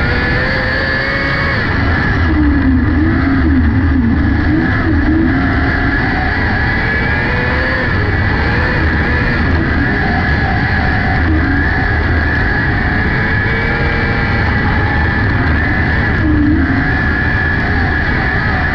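600cc micro sprint car engines at racing speed, the revs rising and falling again and again through the laps.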